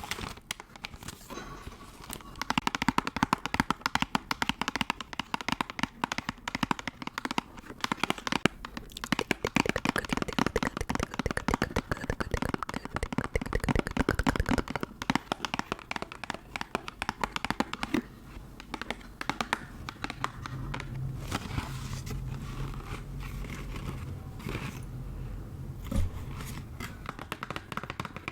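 Close-miked ASMR trigger sounds: a dense run of rapid crinkling and crackling clicks that thins out and gets quieter about halfway through.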